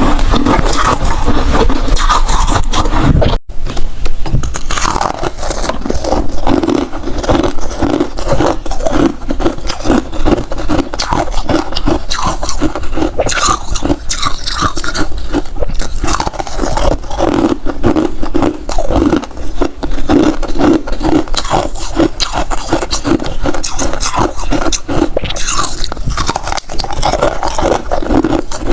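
Hard freezer ice being bitten and chewed close to the microphone: a continuous run of rapid, crackling crunches.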